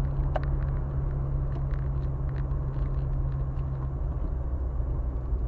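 A car driving: steady low engine and road rumble, with a low hum that drops away about four seconds in.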